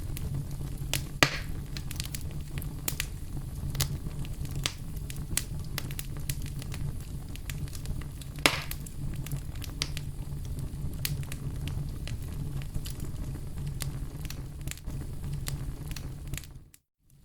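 Campfire crackling: burning wood popping in many small sharp clicks over a steady low rumble of the flames, with two louder pops. The sound cuts out abruptly near the end.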